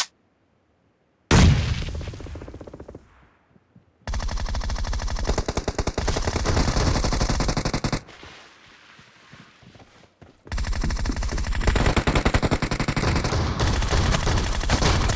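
Video game automatic gunfire: one loud blast about a second in that dies away over two seconds, then two long bursts of rapid automatic fire separated by a short pause.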